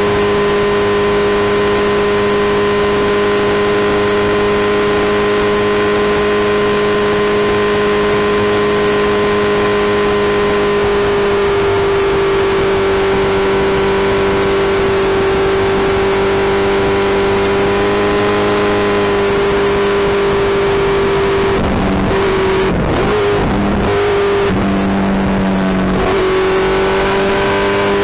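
Suzuki Hayabusa's inline-four engine running at a steady pitch while riding. Near the end the note wavers as the throttle changes, then climbs as the bike accelerates.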